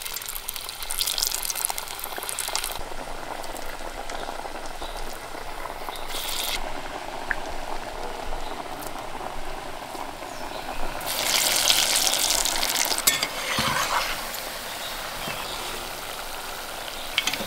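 Lentil vadas deep-frying in hot oil: a steady sizzling and bubbling that surges louder a few times as more flattened patties are dropped into the oil.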